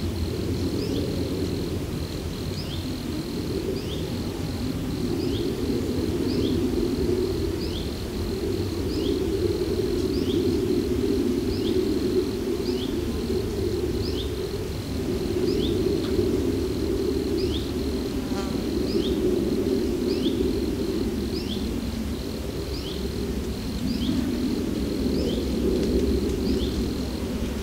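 Insects buzzing in summer heat, a low hum that swells and fades every few seconds. Over it runs a steady high, thin insect trill, with a short chirp repeated about once a second.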